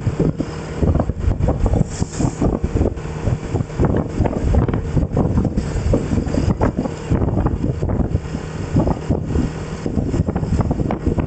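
Wind buffeting the microphone in uneven gusts while on the move, over a low, steady vehicle running noise.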